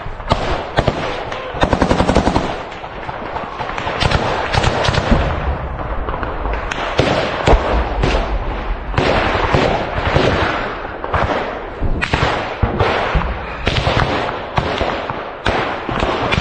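Small-arms gunfire in a firefight: scattered shots and bursts of automatic fire, with one rapid burst about two seconds in.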